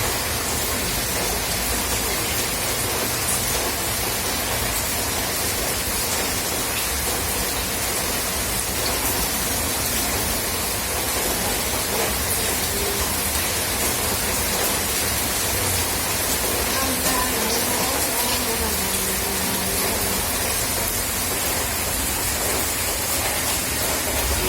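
Steady rain falling, an even hiss with no let-up, and faint wavering sounds like a distant voice a little past the middle.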